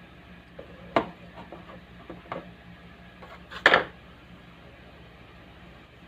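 A few sharp knocks and clatters of objects being handled, the loudest about a second in and just before four seconds, over a faint steady low hum.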